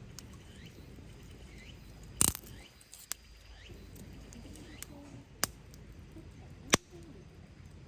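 Campfire wood popping: four sharp cracks spread over several seconds, with small birds chirping faintly in the background.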